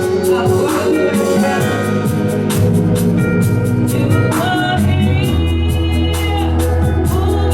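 Live church praise music: singing over a steady drum beat, bass and held keyboard chords.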